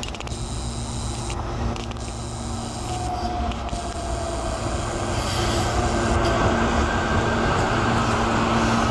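SEPTA Silverliner V electric multiple-unit train approaching and rolling past, its wheel-on-rail noise growing louder from about five seconds in. A faint whine slides slightly downward in pitch through the middle.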